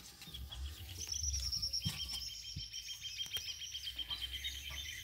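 A songbird singing a long, fast run of high chirping and trilling notes, starting about a second in.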